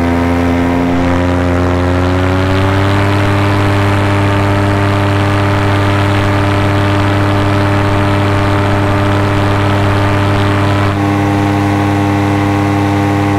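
Paramotor engine and propeller running steadily in flight. The pitch climbs a little about two seconds in, and the tone shifts slightly late on.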